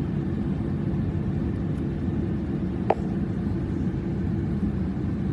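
Steady low engine rumble, with a single sharp click about three seconds in.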